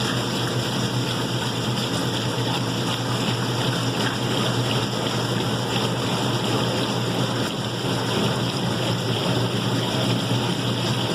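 White Westinghouse washing machine running steadily: a constant low motor hum under an even rushing noise, with no change through the stretch.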